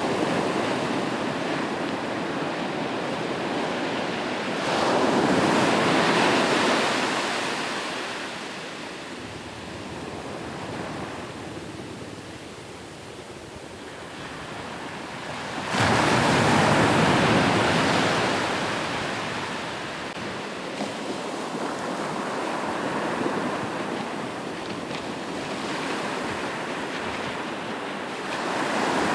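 Ocean waves breaking on a shore, a steady wash of surf with two big waves, about five seconds in and, more suddenly, about sixteen seconds in, each fading slowly, and another swelling near the end.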